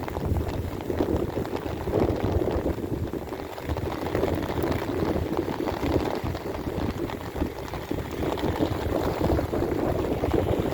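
Heavy rain falling and splashing: a dense, uneven crackle of many drops.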